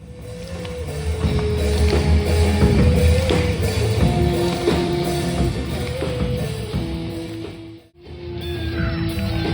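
Rock band music with electric guitar and drums. It cuts out abruptly for a moment about eight seconds in, then starts again.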